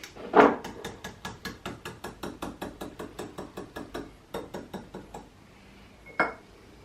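A spoon stirring cake batter in a mug, clicking against the mug's sides about five times a second and fading after about five seconds, then a single sharper knock near the end.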